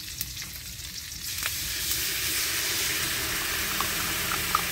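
Dried fish frying in hot oil in a wok, sizzling steadily. About a second in the sizzle grows louder and brighter as a dark sauce is poured into the hot oil. A few faint pops come near the end.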